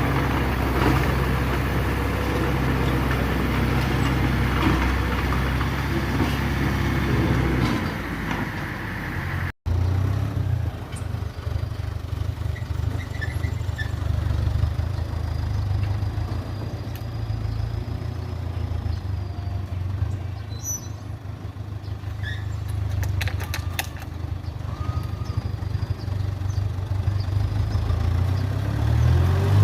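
Heavy diesel earthmoving machinery running steadily with a deep drone. The sound cuts out for an instant about ten seconds in, and the engine speeds up near the end.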